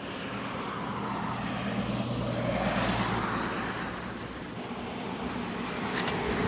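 A passing vehicle, its noise swelling to a peak about halfway through and then fading, over a steady low hum.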